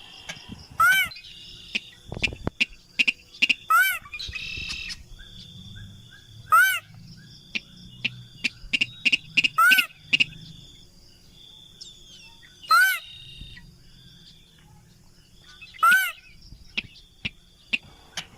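Recorded lure call of a sintar crake: a loud, short, arching call repeated about every three seconds. Between the calls are smaller chirps, clicks and steady high trills from other birds or insects.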